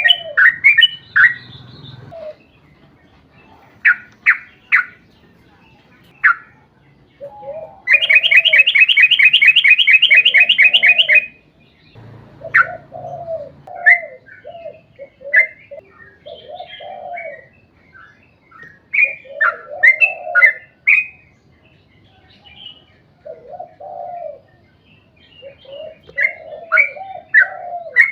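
Yellow-vented bulbul (trucuk) calling: bright chirps and lower bubbly warbled phrases. About eight seconds in comes a long, fast trill of roughly eight notes a second that lasts about three seconds.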